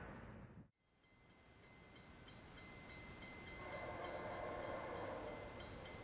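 Noise of a passing train fading out to a brief total silence under a second in. Faint steady rail-side noise then fades back up, with faint regular high ticks.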